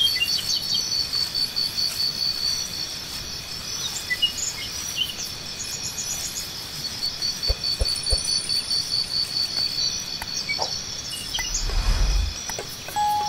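Insects chirping in a steady, rapidly pulsing chorus, with scattered bird chirps over it. A few soft knocks come about halfway through, and a brief low rumble comes near the end.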